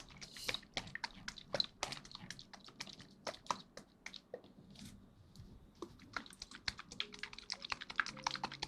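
Rapid, irregular small clicks and taps close to the microphone, coming thicker near the end.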